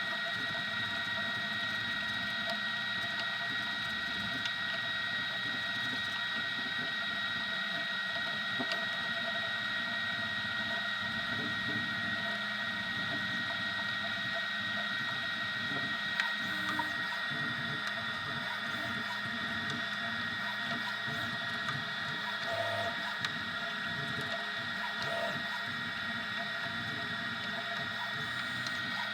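Easythreed X2 desktop 3D printer running mid-print: a steady high-pitched whine with a low hum underneath and a few faint clicks.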